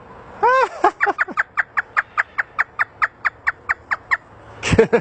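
African grey parrot mimicking a hysterical human laugh: a few arching whoops, then a fast run of short falling 'ha' notes, about five a second, that stops about four seconds in, with another burst of laughter near the end.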